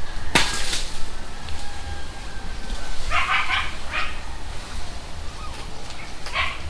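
A sudden crash about half a second in, then a dog barking a few times, about three seconds in and again near the end.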